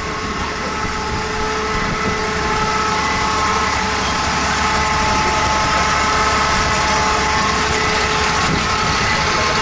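Motorcycle engine running at a steady, unchanging pitch, under a constant rushing noise.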